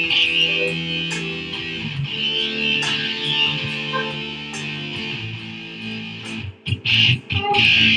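Guitar music without singing: strummed chords held and changing, with a brief break and a few sharp hits shortly before the end.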